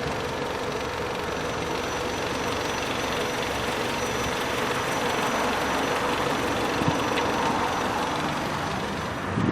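Chery Tiggo engine idling steadily, an even running noise with a constant low hum.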